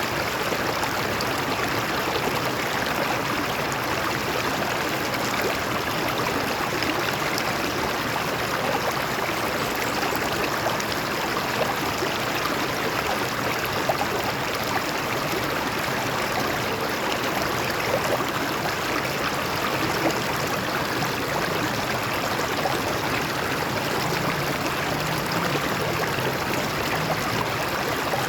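Shallow stream water flowing over rocks: a steady rush with small splashes and trickles.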